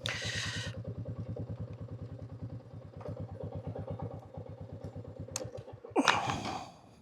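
Royal Enfield motorcycle engine idling with a steady, even beat, then shut off near the end.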